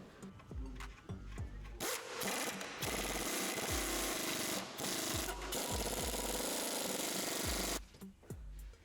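A power tool runs hard in long bursts for about six seconds, a dense rattling noise with brief breaks, over background music with a steady beat.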